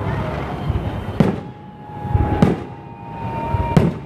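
Fireworks display: three sharp bangs of shells bursting, about one and a quarter seconds apart, over a continuous rumble, with a held whistling tone between the second and third bang.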